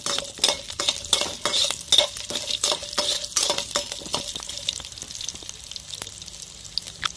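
Chana dal and whole shallots sizzling in hot oil in a kadai, while a perforated metal spoon stirs and scrapes the pan with quick, frequent clinks for the first three seconds or so; after that the sizzle carries on with only an occasional clink.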